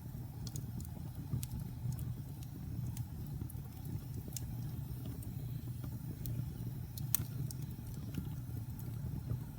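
Wood fire burning in a fireplace: a steady low roar with irregular sharp crackles and pops, the loudest pop about seven seconds in.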